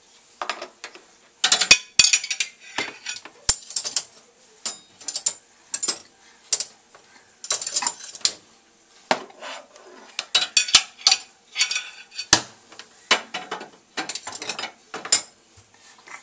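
Dishes and utensils rattling and clattering in a dishwasher rack as a baby handles them: irregular bursts of clinks, knocks and rattling, with sharp clicks now and then.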